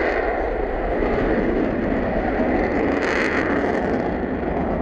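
Jet aircraft engine noise from an airshow display, a steady roar that swells briefly about three seconds in.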